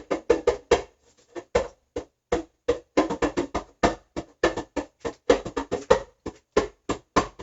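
A drum being played: a quick, uneven pattern of sharp strikes, several a second, with faster runs of hits about three seconds in and again past the middle.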